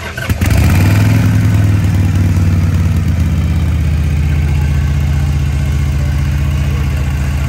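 Harley-Davidson V-twin motorcycle engine starting up with a click, its revs settling in the first couple of seconds, then idling loudly and steadily.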